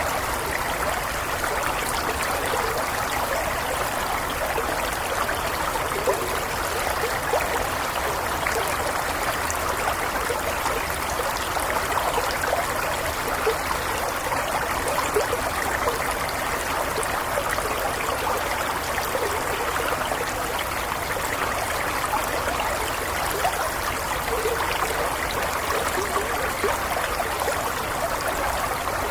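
Shallow stream flowing steadily, with a continuous babble and trickle of water over stones.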